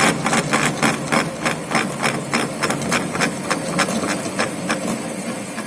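Lathe turning a 12 mm radius on the end of a workpiece with a radius form tool, a sharp regular ticking about four times a second that grows fainter toward the end.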